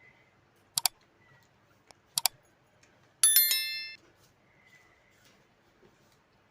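Two quick double clicks, then a ringing clink about three seconds in that dies away within a second.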